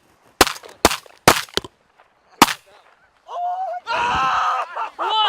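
Volley of shotgun blasts from several hunters firing 3.5-inch steel shot: about five shots in the first two and a half seconds. Near the end come loud pitched calling and hollering.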